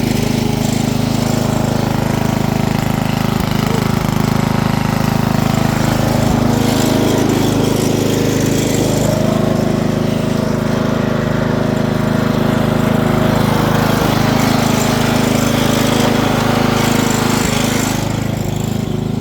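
Small engine running steadily under way, with a low, even hum that holds its pitch and eases slightly near the end.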